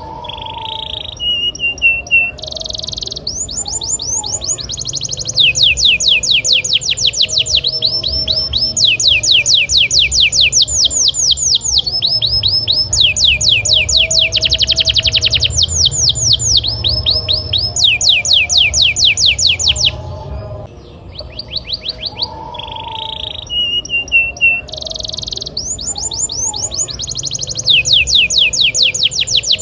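Domestic canary singing a long, continuous song of rapid trills, each a fast run of the same repeated note, switching to a new trill every second or two. The song eases off briefly about twenty seconds in, then picks up again.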